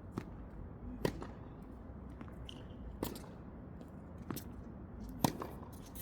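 Tennis balls struck by racquets in a rally: four sharp pops about one to two seconds apart, the loudest near the end, with a short high squeak about two and a half seconds in.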